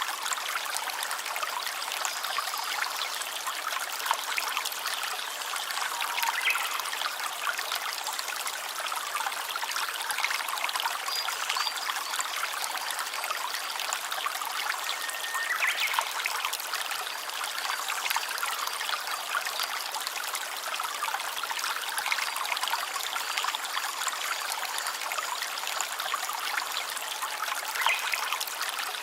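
Shallow stream trickling and babbling steadily, with a few brief high-pitched tones now and then.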